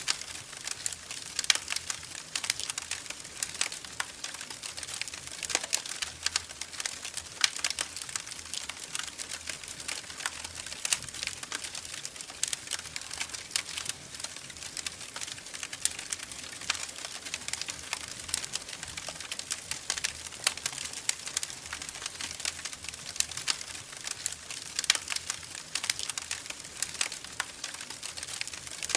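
Wood fire crackling in a fireplace: a steady run of irregular sharp pops and snaps over a faint hiss, with some louder pops now and then.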